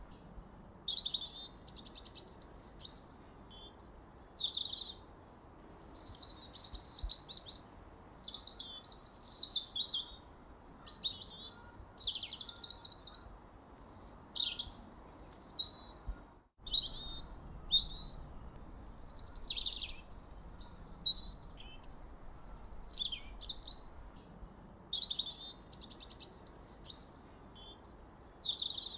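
Songbirds chirping and singing in quick, repeated high phrases, over a faint steady background hiss. The whole sound cuts out for a split second a little past halfway.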